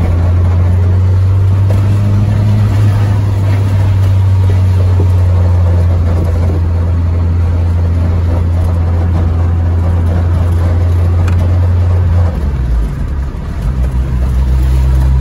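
Turbocharged Acura Integra's four-cylinder engine droning steadily inside the cabin while driving, holding one low pitch. About twelve seconds in the note drops and the level wavers briefly, then it settles into a lower steady drone.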